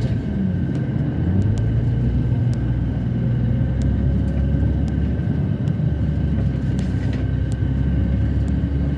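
Steady low rumble of a passenger airplane heard from inside the cabin, with a faint constant hum over it and a few light clicks.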